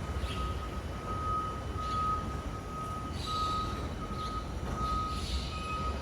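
BYD garbage truck's warning beeper sounding a steady string of single-pitch beeps, about one and a half a second, over a low vehicle rumble.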